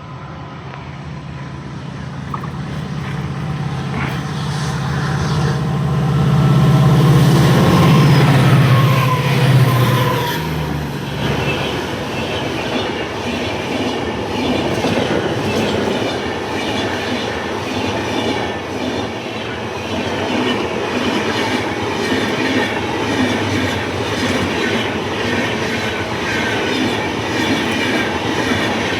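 A locomotive-hauled train passing close by: the locomotive's heavy low hum builds, peaks about seven to ten seconds in and drops away, then the cars follow with a steady, rhythmic clickety-clack of wheels on the rails.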